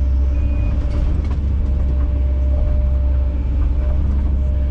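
Kobelco SK210 excavator's diesel engine running steadily, a deep even drone.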